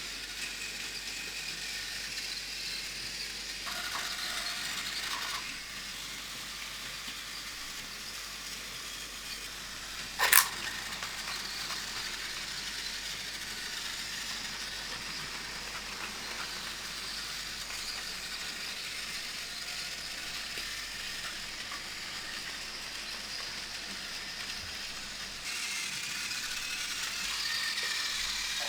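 Battery-powered Plarail toy trains running on plastic track, giving a steady whirring and rattling, with one sharp click about ten seconds in.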